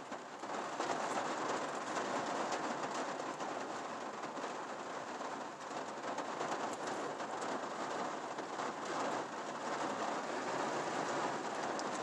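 Steady rain falling on a truck's roof and windshield, heard from inside the cab, with individual drops ticking on the metal and glass.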